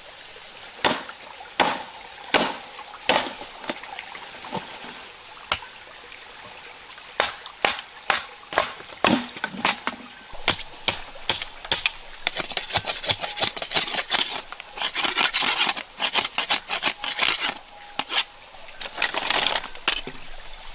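Sharp wooden knocks, at first evenly about one every three-quarters of a second and then irregular. From about twelve seconds in they give way to dense rapid clicking and scraping, then a second burst of scraping near the end.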